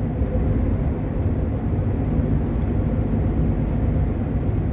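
Steady low rumble of a long-haul truck's engine and tyres, heard from inside the cab while cruising.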